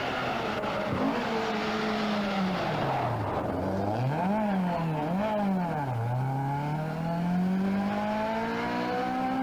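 Rally car engine: the revs drop, then rise and fall sharply twice as the driver blips through a corner, then climb steadily as the car accelerates away.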